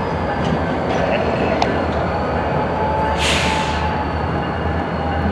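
Freight cars moving through a rail yard: a steady rumble with scattered sharp clicks and a short hiss a little past the middle.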